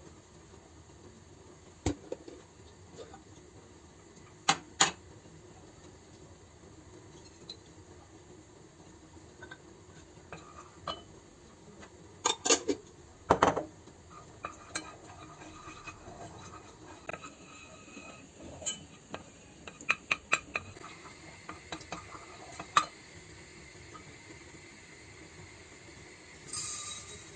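Dishes and cutlery clinking and knocking in scattered handling sounds, with a few quick clusters of sharp clinks. A short rustle or hiss comes near the end.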